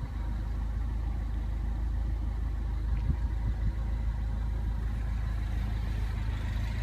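The 2015 Mini Cooper S Countryman's turbocharged four-cylinder engine idling, heard from inside the cabin as a steady low hum.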